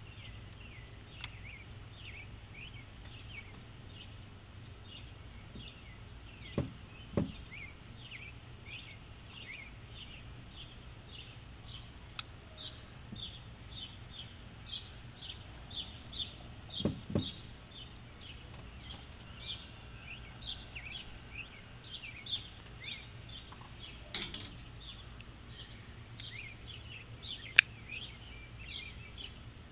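Small birds chirping in a steady run of short, falling chirps, two or three a second. A few dull knocks from handling sound twice, and one sharp click comes near the end.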